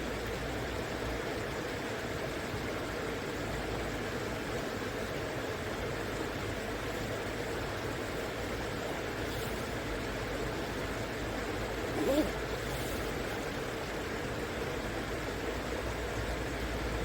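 Steady rush of a shallow river flowing. About twelve seconds in there is one brief chirp-like sound that rises quickly in pitch.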